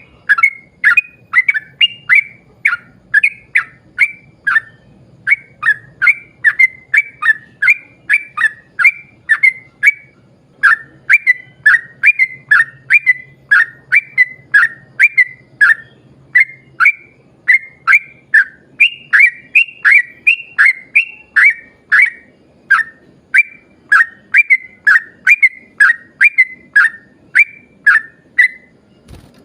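Yellow-vented bulbul (trucuk) singing a long, rapid run of short, loud whistled notes, about two to three a second, barely pausing.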